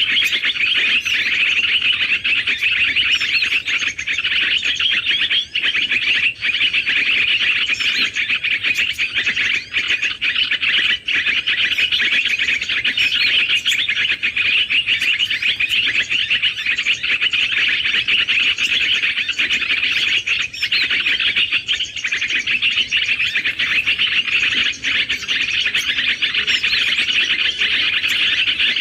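Many small birds chirping and twittering in a dense, unbroken chorus of high-pitched calls, steady in loudness throughout.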